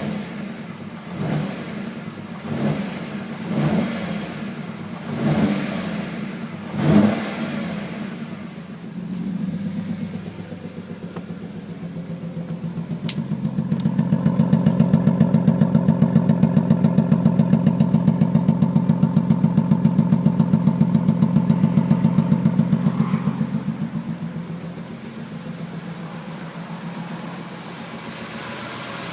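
BMW E46 M3's inline-six engine blipped about five times, then held at raised revs for around eight seconds with a fast, even pulsing beat, then dropping back to idle. The owner hears a weird sound in it and suspects a spark plug has come out.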